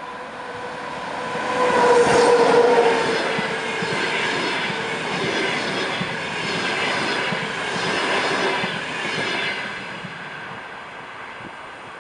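EP20 electric locomotive passing with a passenger train: its steady whine grows loud and dips slightly in pitch as it goes by about two seconds in. The coaches' wheels follow with a rumble and clicks over rail joints, fading near the end.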